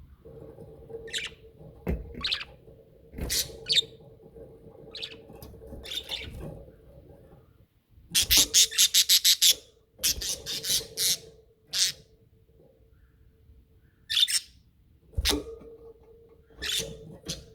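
Budgerigars chirping and chattering in short, high calls, with a quick run of about six chirps a second a little after the middle. A few sharp knocks sound among the calls, over a steady low hum.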